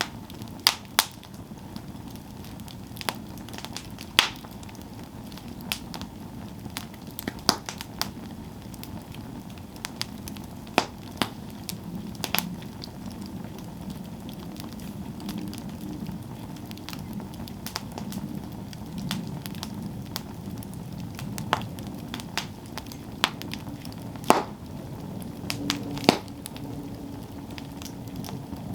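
Campfire burning with sharp, irregular crackles and pops of burning wood, one every second or so, over a steady low rush of flame.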